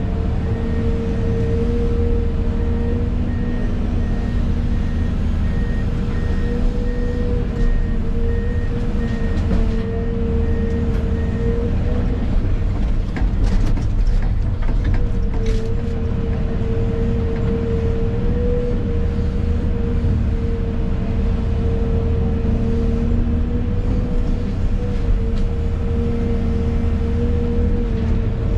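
An excavator's diesel engine running under load with a steady whine, heard from inside the cab. A backup alarm beeps about twice a second until about 11 seconds in, and a few sharp knocks come around the middle.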